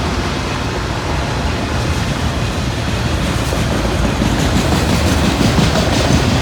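A passing train's steady rumble of wheels running on the rails, with faint clicking from the rail joints in the later seconds.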